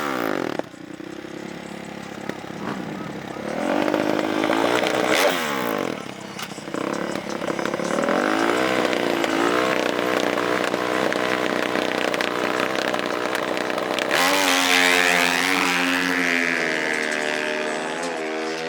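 Dirt-bike and ATV engines revving, their pitch climbing and falling as they race. A louder engine cuts in about three-quarters of the way through, its pitch rising.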